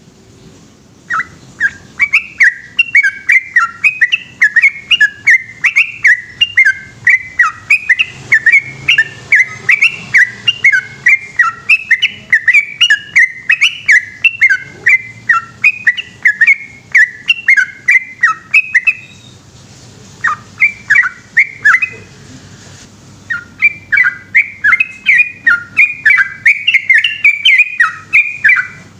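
Yellow-vented bulbul (trucukan) singing a long, rapid-fire run of loud, bubbly whistled notes, about three a second. The run has two short breaks about two-thirds of the way through.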